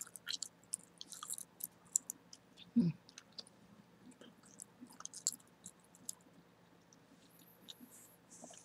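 Chewing gum close to the microphone: a scattered run of short mouth clicks and smacks, with one louder, lower thud about three seconds in.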